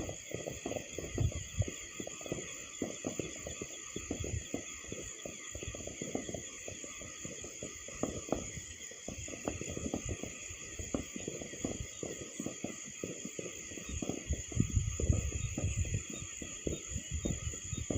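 Distant New Year fireworks banging and popping irregularly from the valley below, many small reports overlapping, over a steady high chirring of crickets.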